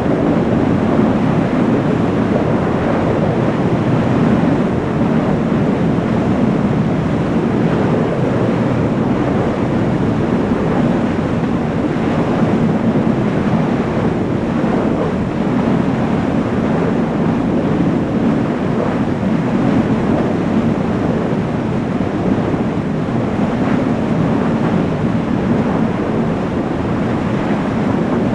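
Jet engine running with a loud, steady rushing noise, without a rising whine or distinct tones.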